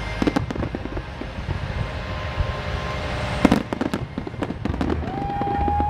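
Aerial firework shells bursting: a dense run of crackling pops over low booms, with a sharper bang about three and a half seconds in. A steady high tone comes in near the end.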